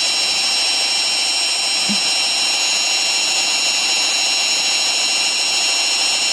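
Samsung Ecobubble front-loading washing machine in its spin cycle at high speed (1200 setting): a steady high-pitched whine from the spinning drum and motor over a constant rushing noise.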